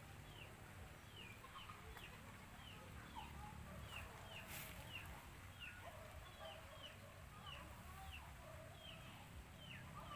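Faint bird calls: a short, high, falling chirp repeated about twice a second, with some lower calls in the middle, over a steady low rumble.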